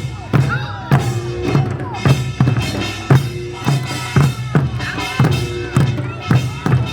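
Korean folk music with a steady drumbeat under a melodic line that bends and wavers in pitch.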